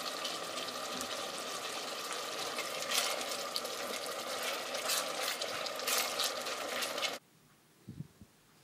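Sliced onion, dry chillies and tomato sizzling in hot oil in a steel pot, a steady hiss with sharp spitting crackles. It cuts off suddenly about a second before the end.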